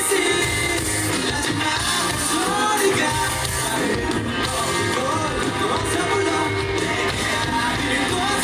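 Live pop-rock band performance, amplified through a PA: a male lead vocalist singing over the full band.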